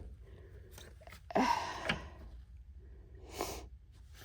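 A person's effortful breathing while straining to force a part into place: a grunting exhale about a second and a half in, and a shorter sharp breath about three and a half seconds in.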